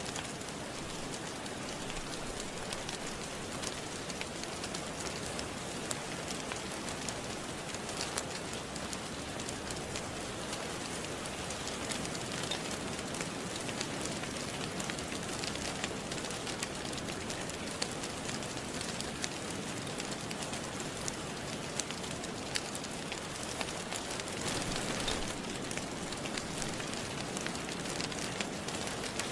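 Steady rain hissing, with the irregular small crackles and pops of a wood fire burning in a fireplace.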